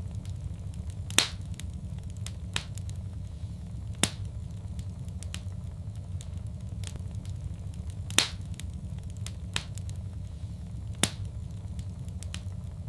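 Wood fire crackling in a fireplace: a steady low rumble with scattered sharp pops and crackles, four of them louder, spaced a few seconds apart.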